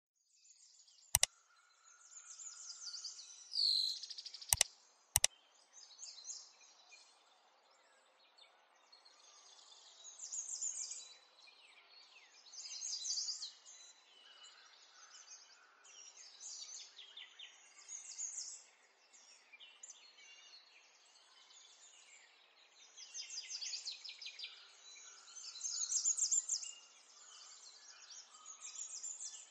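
Small birds chirping in the background in repeated bursts, with three sharp clicks about one, four and a half, and five seconds in.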